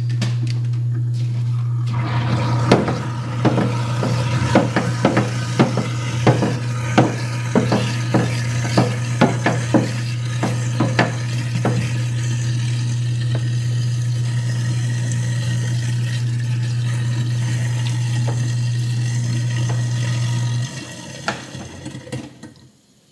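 InSinkErator garbage disposal running with a steady motor hum and water flowing, food chunks knocking and rattling against the grinding chamber for the first half as they are ground up. The motor shuts off about three seconds before the end.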